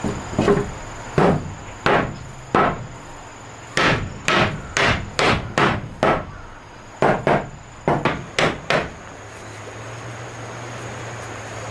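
Hammering, about fifteen sharp blows in uneven runs, stopping about nine seconds in.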